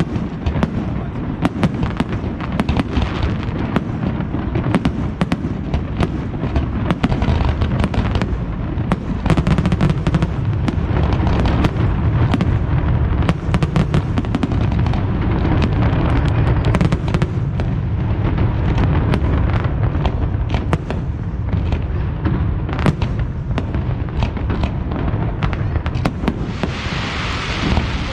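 Fireworks display: shells bursting in rapid, overlapping bangs over a continuous low rumble, with a hissing crackle swelling up near the end.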